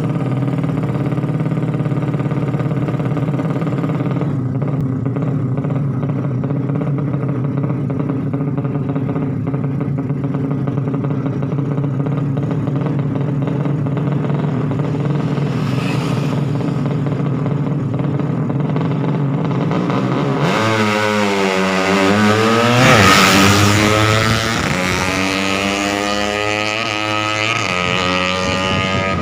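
A 200cc underbone motorcycle engine idling steadily, then revved repeatedly from about two-thirds of the way through, its pitch rising and falling and peaking about three-quarters through before holding at higher, uneven revs.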